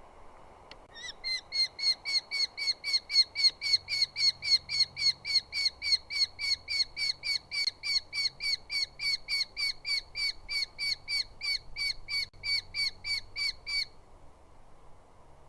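Eurasian hobby calling: a long, even run of short, sharp down-slurred 'kew' notes, about three or four a second, that starts about a second in and stops near the end.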